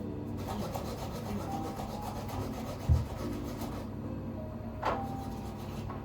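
A run of rapid, evenly repeating scraping strokes for about three and a half seconds, with a low thump about 3 seconds in and a sharp click just before 5 seconds.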